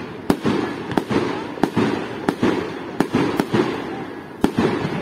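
Fireworks display: aerial shells bursting in quick succession, about seven sharp bangs with a rolling, echoing rumble between them.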